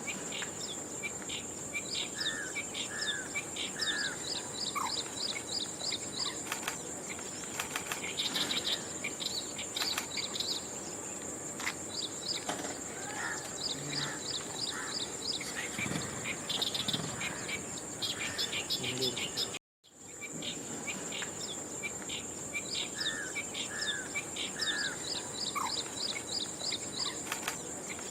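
Outdoor ambience of a steady high-pitched insect drone, typical of crickets, with small birds chirping and trilling over it in short repeated phrases. The sound cuts out for a moment about two-thirds of the way through, then resumes.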